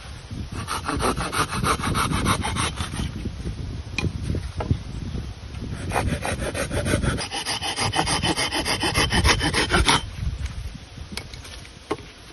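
Wood being cut with a hand saw: rapid rasping strokes in two bouts, the second, from about six to ten seconds in, the louder.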